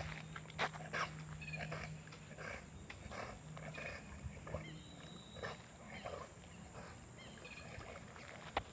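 Dog panting in short, faint breaths about twice a second.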